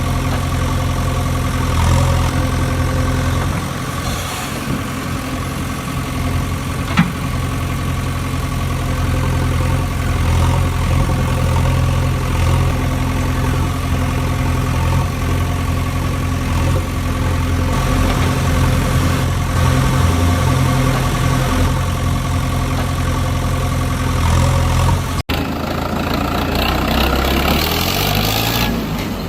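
Heavy vehicle engine idling steadily, with a single sharp click about seven seconds in. Near the end the sound cuts out for an instant and switches to an engine rising in pitch in steps.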